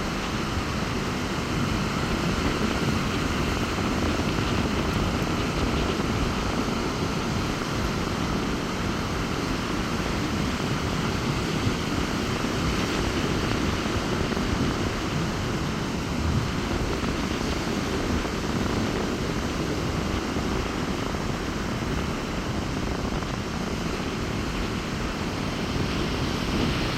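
Rough sea surf breaking steadily on a beach in strong wind, with wind rumbling on the microphone.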